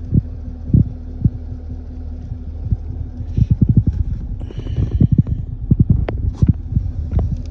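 2016 Chevrolet Camaro SS's 6.2-litre V8 idling with a steady low hum, with irregular low thumps over it.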